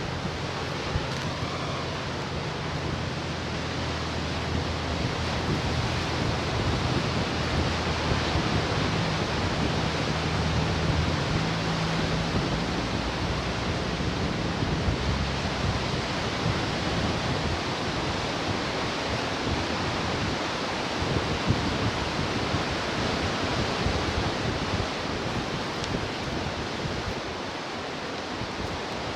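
Ocean surf washing onto the shore in a steady, continuous rush.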